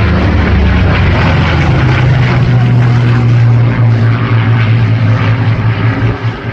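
Piston-engined propeller aircraft flying past with a loud, steady engine drone; its pitch rises slightly about two seconds in.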